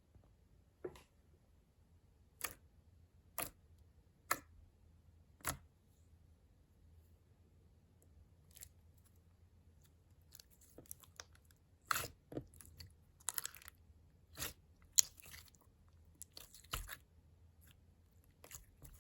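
Slime being pressed and worked by hand, giving sharp clicks and pops about once a second at first, then denser crackly clusters of pops from about ten seconds in.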